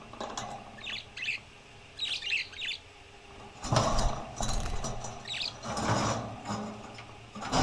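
Small parrots chirping in short clusters, mixed with several louder rattling, scraping noises.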